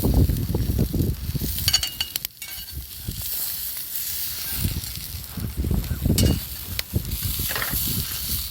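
A campfire crackling, with food sizzling as it cooks over it, and scattered low thumps throughout.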